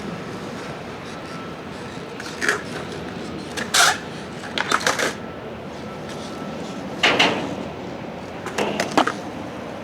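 Skateboard rolling on wet pavement, a steady rolling hiss broken by several sharp wooden clacks of the board as tricks are tried.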